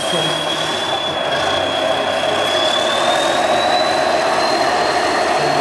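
Heavy 6x6 Tatra 815 truck's diesel engine running steadily under load, with a thin high whine that rises slightly in pitch about three seconds in.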